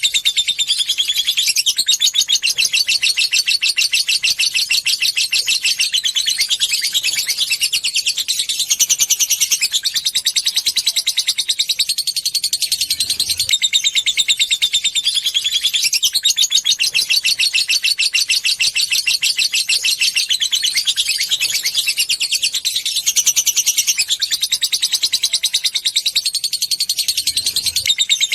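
Lovebird chattering in long, rapid, high-pitched trills of ticking notes (the 'ngekek' call), broken by short pauses every few seconds.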